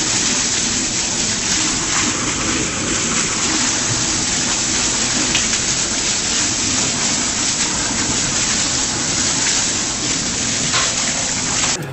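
Water spraying hard out of a live, pressurized water line that has been cut open: a steady, loud hiss and splatter. It cuts off suddenly near the end.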